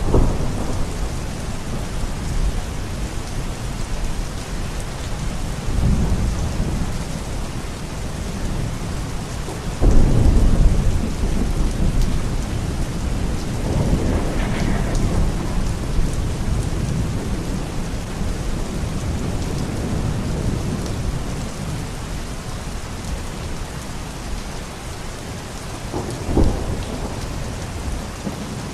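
Steady heavy rain with several low rolls of thunder. The loudest roll breaks in suddenly about ten seconds in, and a shorter, sharper clap comes near the end.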